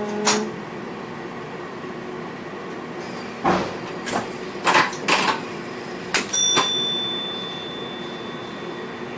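Sharp clicks and knocks inside the cab of a VIRM double-deck train, about eight of them over six seconds. Then a single high ringing ding about six seconds in that fades away slowly.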